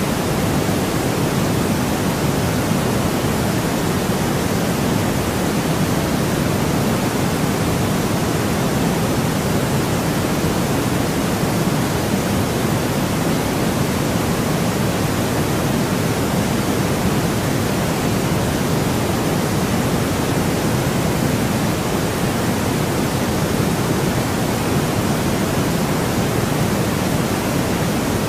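Steady synthetic noise without any change, weighted toward the low end, closer to pink noise than to pure white noise.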